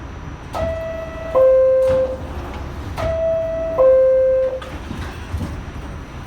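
New York City subway car's door-closing chime: a descending two-note 'ding-dong', sounded twice about two and a half seconds apart, over the steady noise of the train.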